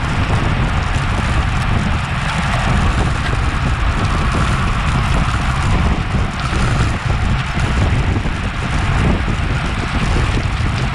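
Steady wind rushing over the microphone of a bike-mounted action camera at racing speed, with a deep rumble from the road bike's tyres and the road beneath it.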